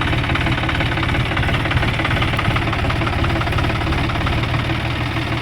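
Diesel tractor engine running steadily with a rapid low throb.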